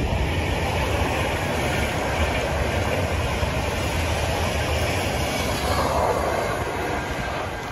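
Passenger train passing along the track: a steady rush of wheel-on-rail noise that begins to fade near the end.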